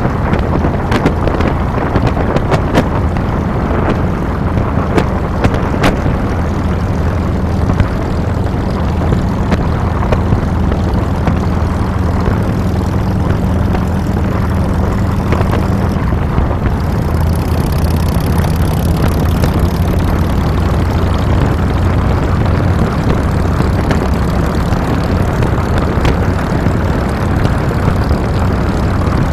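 2007 Harley-Davidson Fat Boy's V-twin engine running under way, mixed with wind and road noise at the handlebars. Its pitch shifts slightly about halfway through.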